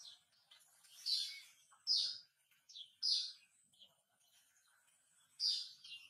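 A bird calling with a string of short, high chirps, separate notes spaced about a second apart, a few of them louder than the rest.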